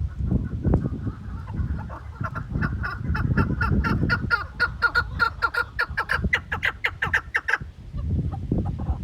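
Chukar partridge calling a fast run of repeated clucking notes, about five or six a second, starting about two seconds in, rising slightly in pitch toward the end and stopping shortly before the close, over a low rumble.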